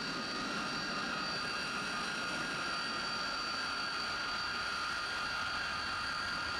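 Freight train of tank cars rolling past at a grade crossing: the steady noise of wheels on rail, with high-pitched tones ringing over it.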